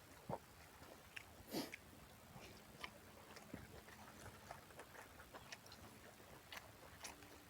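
Faint chewing and wet mouth clicks of a person eating, with a few louder smacks, the loudest about a second and a half in.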